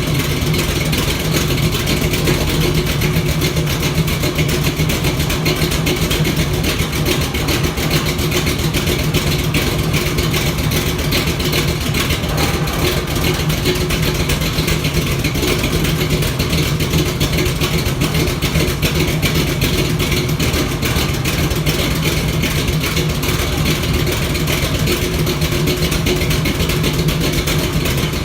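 1976 Chevrolet Monte Carlo's V8 engine running steadily, with an exhaust leak.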